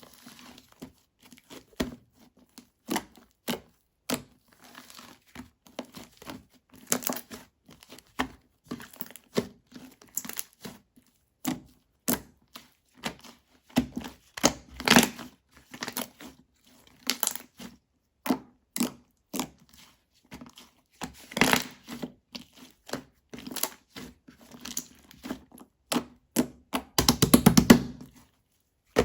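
Slime mixed with clay being kneaded and squeezed by hand: irregular sticky clicks and small pops, with a few louder, longer squelches about midway and near the end.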